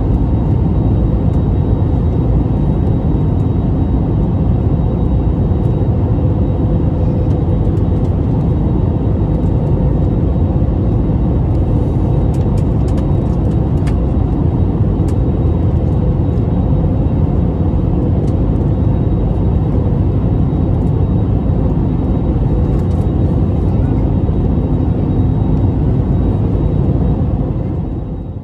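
Steady low rumble of an airplane in flight, with faint steady hums on top, fading out near the end.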